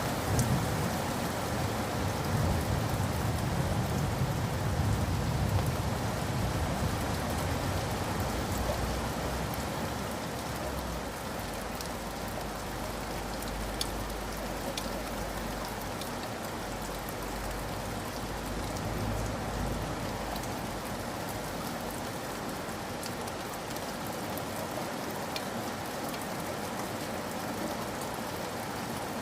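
Steady rain falling, an even hiss with scattered drop ticks. A low rumble is heard through the first several seconds and then dies away.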